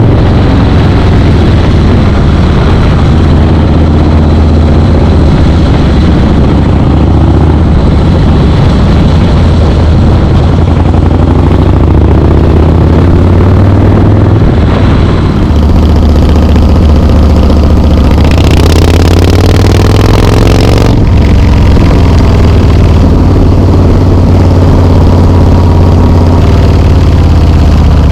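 Harley-Davidson Softail Slim S V-twin running loud through Vance and Hines slip-on mufflers, its exhaust note rising and falling several times as the throttle is worked.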